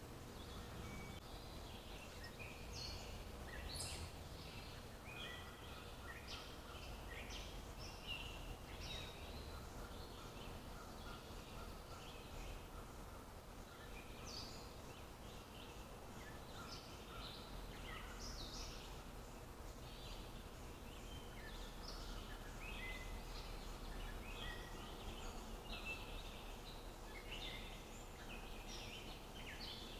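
Several small songbirds chirping and trilling in a steady chorus of short calls, over a faint low background rumble.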